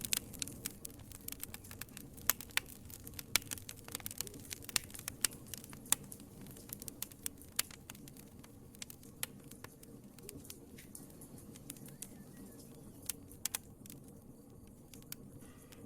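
Wood fire crackling in a fireplace: irregular sharp pops and snaps over a low, steady rumble of flames. The pops come thick and fast for the first half, then thin out to scattered louder snaps.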